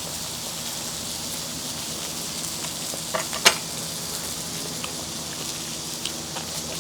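Pork belly sizzling on a hot cast iron pan, a steady hiss, with a sharp click about three and a half seconds in.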